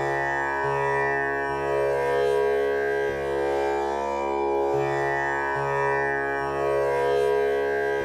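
Tanpura drone tuned to C# for a male voice: its strings are plucked one after another in a slow repeating cycle, and each pluck renews a rich, sustained wash of overtones over a steady low C#.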